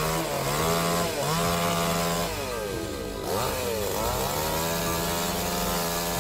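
Chainsaw engine running, its pitch dropping and climbing back several times.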